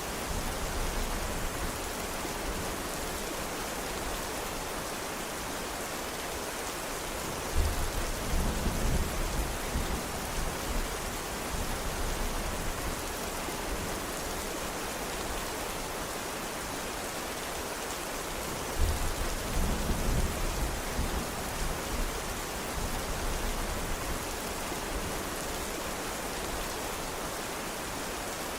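Steady rain falling, with two low rolls of thunder that start suddenly, about a quarter of the way in and again about two-thirds of the way in, each rumbling for a few seconds.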